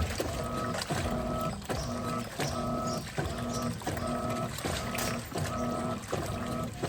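Electrolux LTP15 top-loading washing machine agitating a load, fitted with the LPR16-style agitator. The motor hums in short back-and-forth strokes, roughly one and a half a second, with a brief knock and the swish of water and clothes at each reversal.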